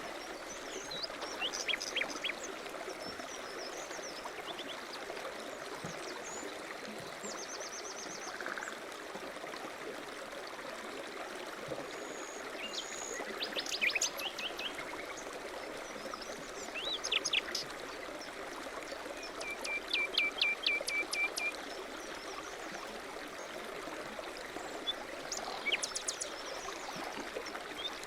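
Songbirds chirping and calling, with a fast trill of repeated notes lasting about a second and a half partway through, over a steady rushing noise.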